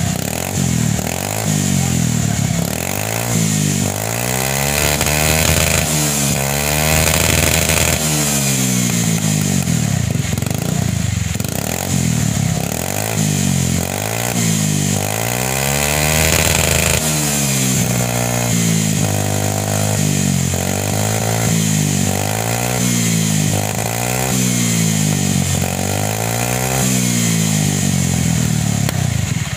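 Honda Beat scooter's single-cylinder engine revved over and over through its hollowed-out exhaust muffler, the pitch rising and falling with each throttle blip. The revs come in long swells at first, then in quicker, regular blips in the second half.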